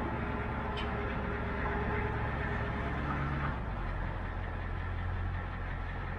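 Vehicle engine running steadily, its note dropping to a lower, steadier pitch about three and a half seconds in.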